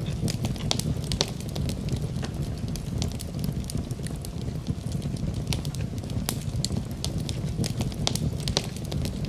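Wood fire crackling in a fireplace: many irregular sharp pops and snaps over a steady low rumble of burning flames.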